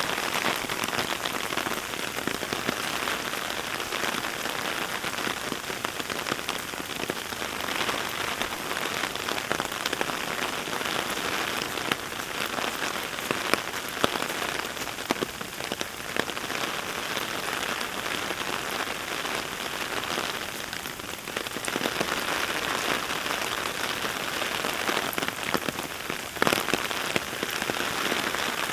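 Heavy rain falling steadily, a dense hiss made of countless close drop ticks, with a few sharper, louder drop hits now and then.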